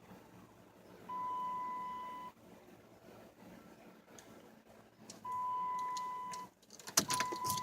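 Warning beep from a 2007 Chrysler 300 that will not crank: a steady mid-pitched tone of about a second sounding twice, then briefly a third time near the end among several clicks and knocks. No starter or engine is heard.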